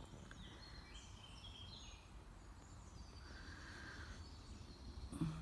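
Faint woodland birdsong: several birds singing short high phrases over a steady low background rumble. A brief thump comes near the end.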